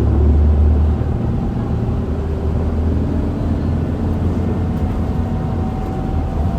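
Interior running sound of an Isuzu Erga QDG-LV290N1 diesel city bus: a low engine drone, strongest in the first second and easing after, with a faint thin whine that rises slightly near the end.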